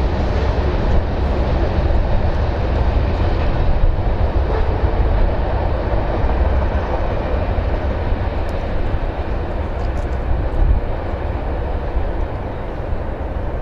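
Freight cars of a CSX freight train rolling past, a steady rumble of steel wheels on the rails.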